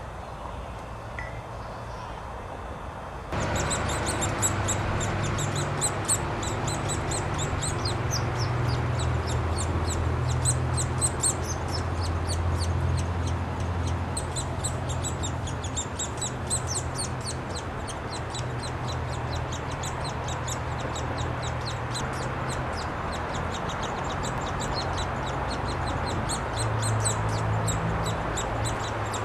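Downy woodpecker nestlings begging from inside the nest hole: a continuous, rapid, high-pitched chatter of calls, starting about three seconds in, over a low steady hum.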